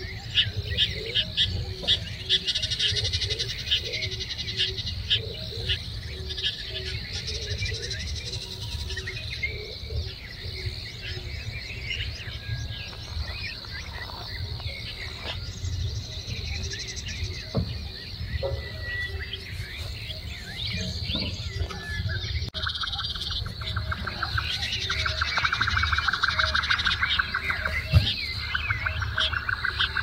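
Wild birds chirping and calling, with many short, high notes, over a low steady rumble. About three-quarters of the way in, a fast, evenly pulsed buzzing trill starts and repeats in long runs.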